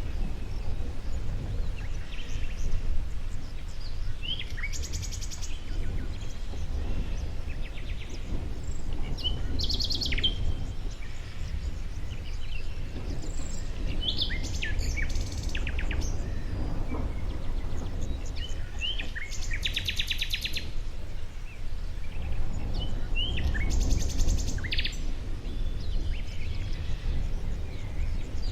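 A songbird repeating one song phrase about every five seconds: a few short sliding chirps, then a fast trill. Under it runs a steady low rumble.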